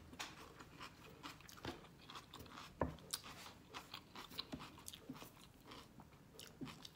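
Close-miked chewing of a vegetable and shrimp stir fry: soft crunches and wet mouth clicks, with one sharper crunch about three seconds in.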